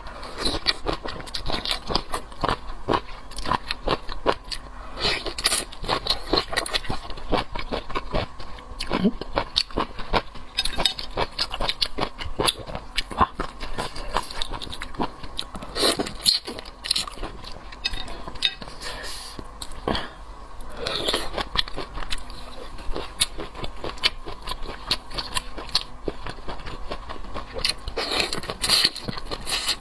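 Close-miked chewing and biting of food, a dense run of irregular clicks and crunches.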